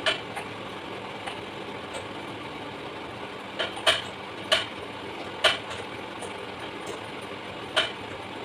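Six sharp clicks and knocks, two close together near the middle, over a steady engine-like hum.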